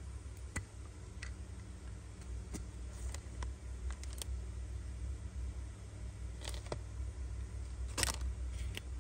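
Faint scattered clicks and taps from a Zippo lighter being handled, over a low steady hum, with a sharper click about eight seconds in.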